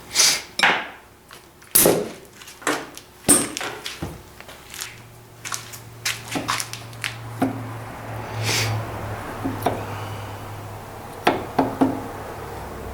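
Irregular metal clinks and knocks of hand tools against the parts of an old vise being taken apart, with a steady low hum coming in about five seconds in.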